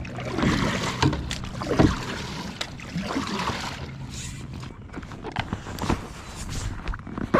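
Water and paddle noise from a fishing kayak being moved, with scattered knocks and clicks against the hull.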